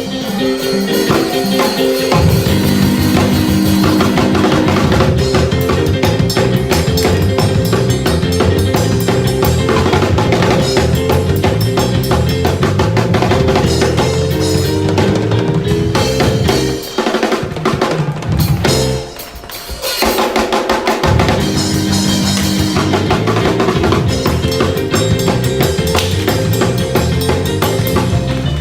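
Fast church praise-break music: a drum kit driving hard on snare and bass drum over a moving bass line. The band cuts out briefly about seventeen seconds in and comes back about four seconds later.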